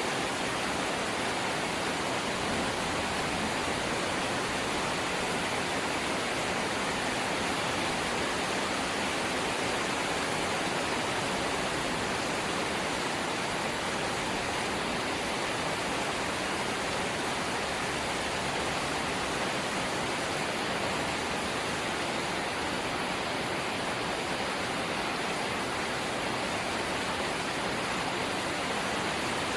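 Steady light rain falling, an even hiss that does not change and has no separate drops or knocks standing out.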